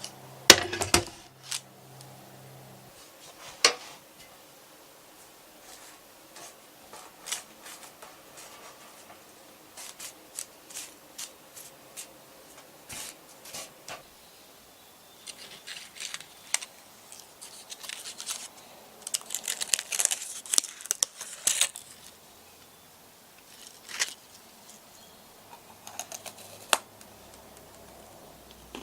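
Kitchen handling sounds during meringue cookie preparation: scattered light clicks and taps, with a dense stretch of crisp rustling and crinkling from about 15 to 22 seconds in.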